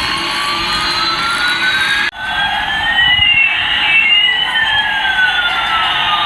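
Electronic siren-like tones, one sliding slowly up in pitch while another slides down, crossing each other, with a sudden break about two seconds in.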